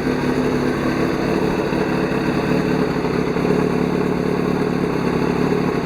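2005 Yamaha YZF-R6 (5SL) motorcycle's 600 cc inline-four engine idling steadily.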